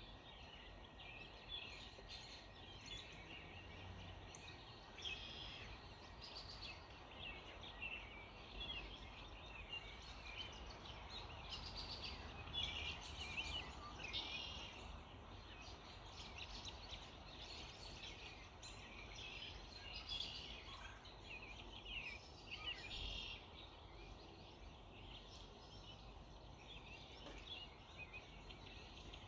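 Early-morning chorus of many birds chirping and singing at once, short overlapping calls and trills throughout, over a steady low background hum.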